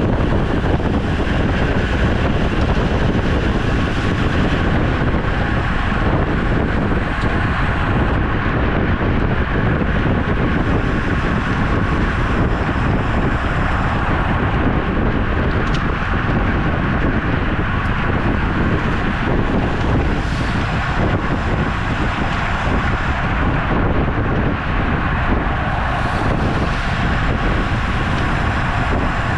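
Steady wind rushing over the microphone of a camera on a moving road bike.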